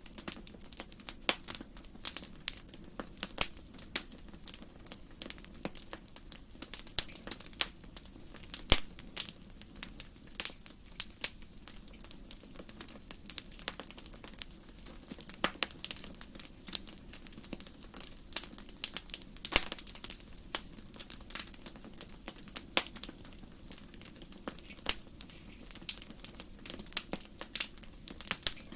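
Wood fire crackling in a fireplace: irregular sharp pops and snaps, several a second, with a few louder pops among them, over a soft steady background.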